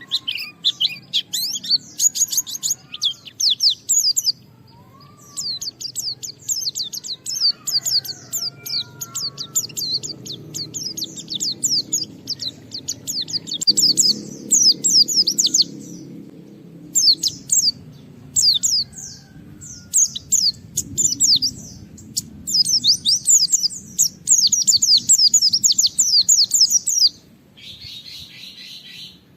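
White-eye (pleci) singing a fast, high-pitched chattering song in phrases a few seconds long, broken by short pauses, over a faint low rumble.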